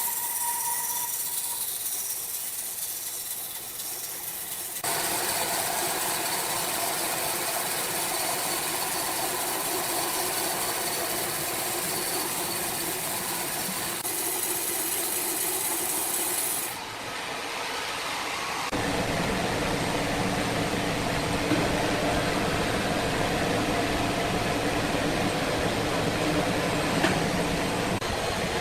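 Steady, loud noise of sawmill machinery running, a dense hiss with faint steady tones. It changes character abruptly about 5, 17 and 19 seconds in.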